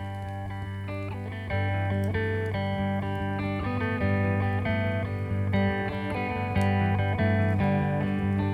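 Guitar playing an instrumental passage between sung lines: a repeating plucked desert-blues figure over a sustained low bass note, growing louder about one and a half seconds in.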